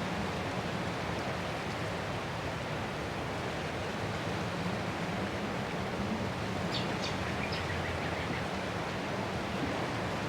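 Ocean surf washing steadily onto a shore, an even hiss of breaking waves with no distinct swells. A few faint high chirps come briefly about seven seconds in.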